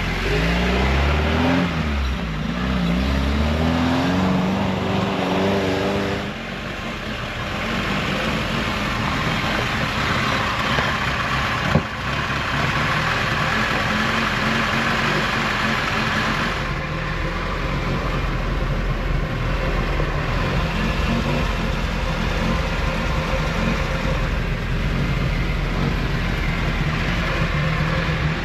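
Car engine revving, its pitch rising and falling for the first few seconds, then running steadily with a constant rush of noise, as when the car is being driven. A single sharp click is heard partway through.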